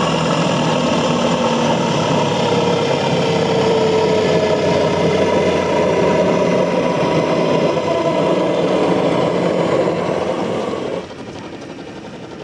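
700-size RC model helicopter in MD 500E scale dress, running with its five-blade rotor and a scale turbine sound module. It is a steady, loud whine with one tone sliding down in pitch over the first several seconds, then the sound drops suddenly about eleven seconds in.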